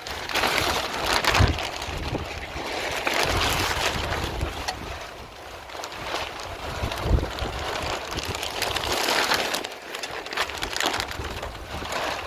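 Wind gusting over the microphone, rushing noise and low rumble that swell and ease every few seconds, with a couple of sharp knocks.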